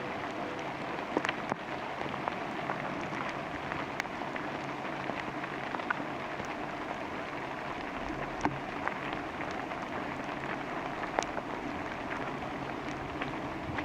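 Steady rain falling through a redwood forest, with scattered louder single drops hitting at irregular moments.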